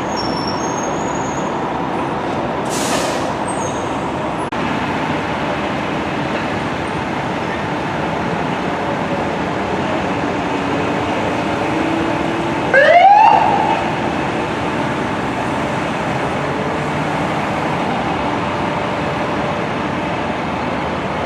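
Fire apparatus and street traffic running steadily, with a short hiss about three seconds in. About 13 seconds in, an emergency vehicle siren briefly winds upward in pitch and cuts off; this is the loudest moment.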